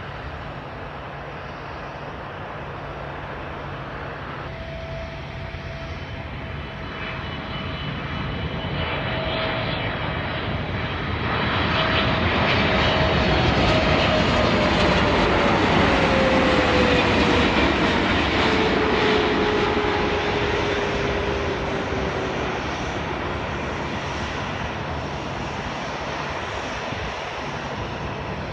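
Emirates Boeing 777 twin jet engines on landing approach, growing steadily louder to a peak about halfway through and then fading. A whine rises over the engine noise and falls in pitch as the aircraft passes by.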